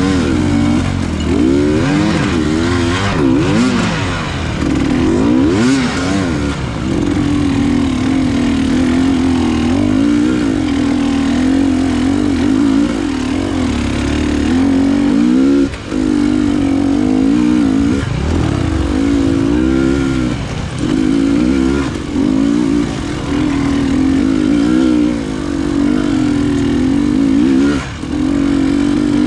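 Enduro motorcycle engine running under load, its revs rising and falling constantly with the throttle. The level drops briefly about halfway through and again near the end, as the throttle is closed for a moment.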